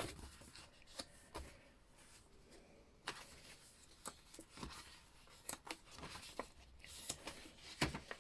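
Pages, tags and cards of a chunky handmade paper journal being handled and turned: soft rustles with scattered small taps and clicks.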